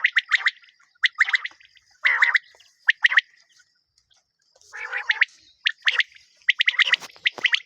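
A bird chattering: clusters of rapid sharp chirps with a few raspy, churring notes, pausing for about a second midway before starting again.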